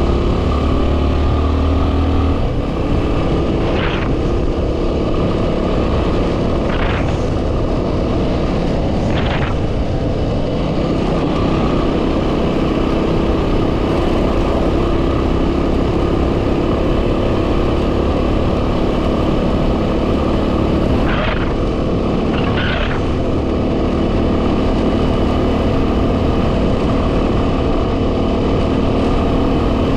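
2010 Yamaha WR250R's single-cylinder four-stroke engine running steadily on the move, buried under heavy wind buffeting on the microphone, with a few short, sharper noises along the way.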